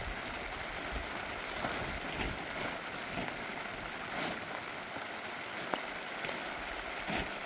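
Heavy rain falling steadily, an even hiss with a few sharper drop hits scattered through it.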